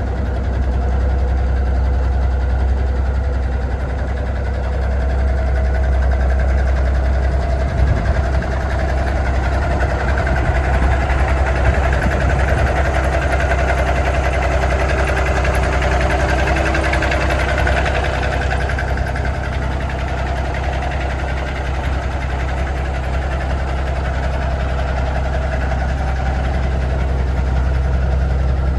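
1987 Peterbilt 377's Cummins diesel engine idling steadily.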